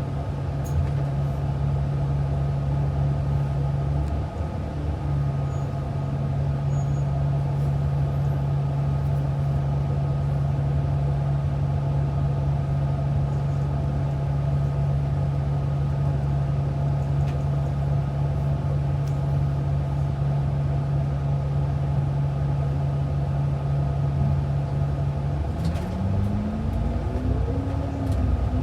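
Bus engine heard from inside the cabin, running steadily with a low hum. Near the end its pitch rises, dips and rises again as the bus pulls away.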